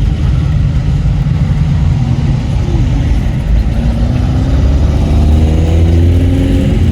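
Vintage car engines running in passing traffic, a low steady rumble; from about halfway through one engine pulls away, its pitch rising as it accelerates, then stops abruptly at the end.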